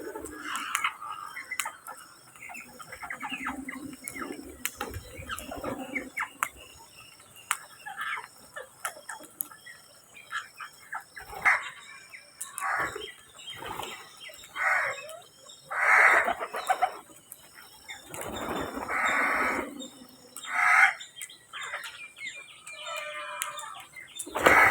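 Birds calling: a run of loud, harsh calls, each under a second long, coming every second or two through the second half, over scattered sharp clicks.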